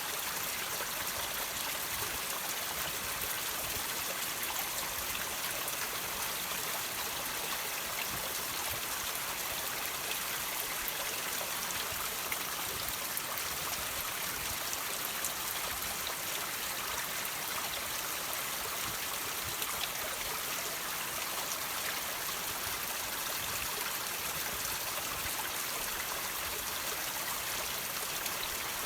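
Water trickling and dripping from rocks: a steady hiss of running water with small drips ticking through it.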